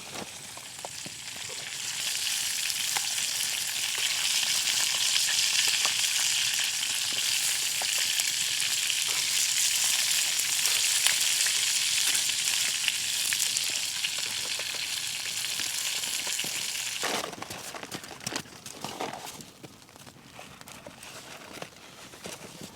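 Food sizzling over a campfire: a steady hiss that builds about two seconds in and falls away suddenly near the end, leaving faint crackles and ticks.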